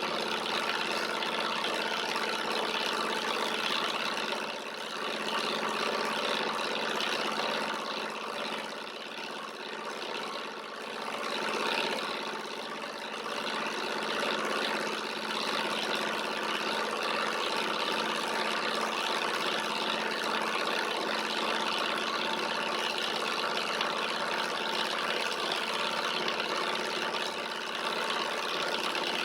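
Alpha-type Stirling engine running steadily while it drives a small generator: a continuous mechanical hum with a dip in level partway through.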